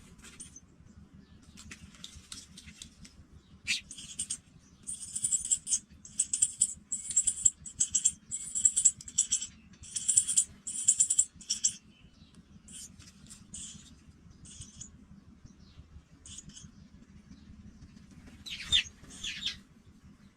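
Pipit nestlings calling: a run of about a dozen short, high-pitched calls, roughly two a second, then a few softer ones and a pair of sliding chirps near the end.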